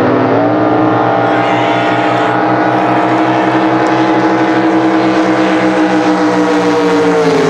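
Racing drag boat engine at full throttle during a pass: its pitch climbs in the first half-second, then holds a steady, high-revving note and dips slightly near the end.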